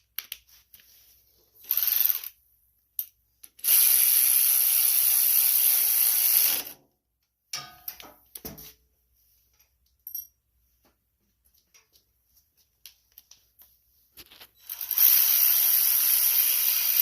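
Ratchet wrench clicking rapidly as bolts are run down and tightened: a short burst, then two long runs of about three seconds each, with a few light clicks and taps of tools between.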